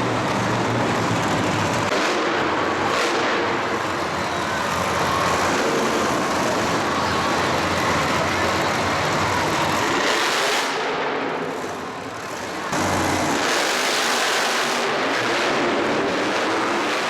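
Loud, dense engine roar of motorsport vehicles at a monster truck show. It dips about eleven seconds in and comes back abruptly a second or so later.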